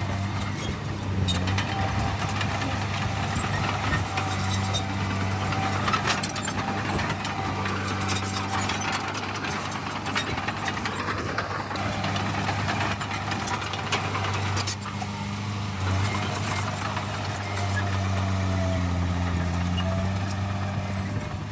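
Heavy diesel earthmoving machinery running steadily, with continuous rattling and clanking; the engine note dips and comes back up near the end.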